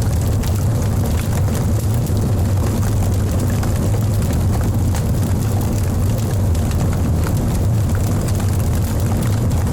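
Wood fire burning in a fireplace: a steady low roar of the flames with scattered small crackles from the logs.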